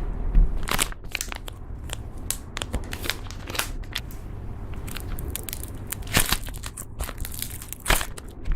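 Slime being squeezed and pressed, with irregular crackling and crunching pops; a few louder pops come about six and eight seconds in.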